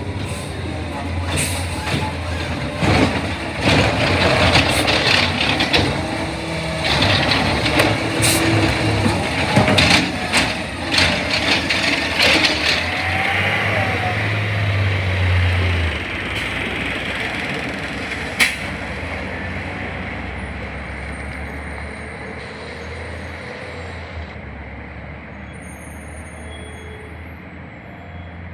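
Garbage truck working: its diesel engine runs under a clatter of knocks and bangs for the first half, then the truck moves off and its sound fades away steadily.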